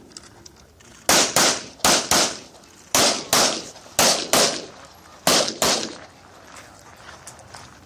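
9mm Glock 34 pistol fired ten times in five quick pairs, the shots of each pair about a third of a second apart. This is the rapid double-tap shooting of a USPSA stage.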